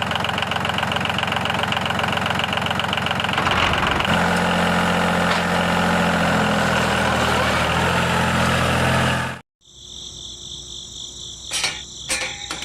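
A small motor running with a fast pulsing beat, changing to a smoother, steadier running note about four seconds in; it cuts off suddenly near the end, leaving faint electronic tones.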